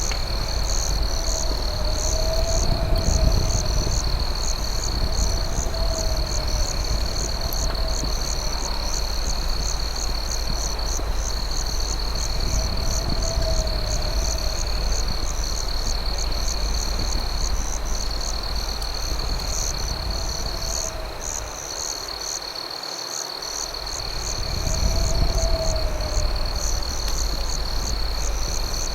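Night chorus of crickets: a steady high trill with rapid pulsed chirps above it. A lower, rising-and-falling call repeats every few seconds over a steady low rumble.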